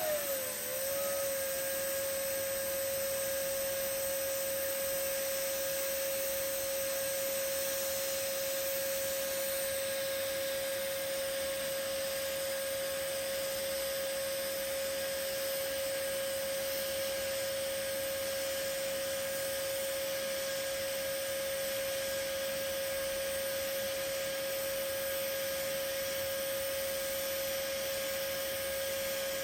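TIG (GTAW) welding arc burning steadily on carbon steel while a stack bead is laid in a fillet joint: a steady humming tone over an even hiss. The pitch wavers briefly just as the arc strikes, then holds.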